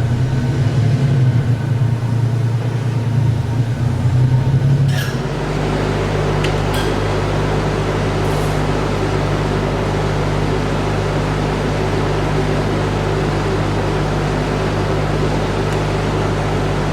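Steady mechanical hum of powered machinery. The low hum wavers for the first few seconds, then about five seconds in it changes with a click to a steadier hum with hiss, and there is another click shortly after.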